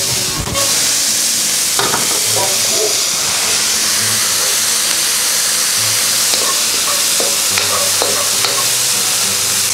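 Diced vegetables and mushrooms sizzling steadily in oil in a wok over high heat while being stir-fried. A wooden spoon stirs them, with a few light scrapes and taps against the pan.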